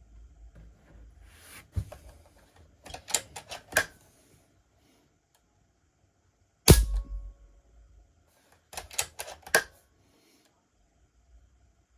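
Airmaks Caiman X PCP air rifle: clusters of sharp metallic clicks as the cocking lever is cycled, then one loud shot a little past halfway, with a short ringing tail.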